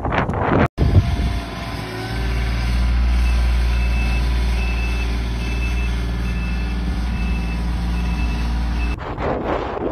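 A heavy truck's engine running steadily with a low hum, its reversing alarm beeping at an even pace of about one beep every 0.7 s, starting about four seconds in. Gusty wind on the microphone is heard briefly at the start and again at the end.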